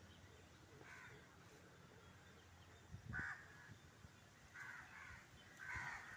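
Faint bird calls: about five short calls, spaced a second or so apart.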